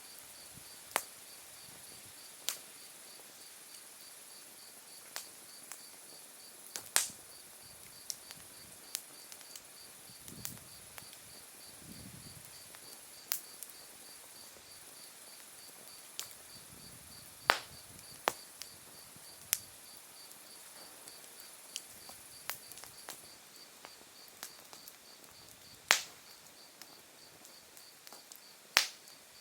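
Open wood fire crackling, with scattered sharp pops of bursting wood, a few of them loud. Under it, autumn insects sing: a high steady trill that stops about three quarters of the way through, and a lower pulsing chirp that keeps on.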